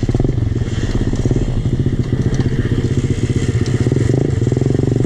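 Pit bike engine running steadily, its rapid firing pulses holding at a fairly even speed.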